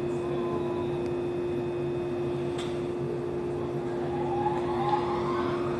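Shinano Railway 115 series electric train standing at a platform, giving off a steady electrical hum over a low rumble. About four seconds in, a faint rising motor whine joins in.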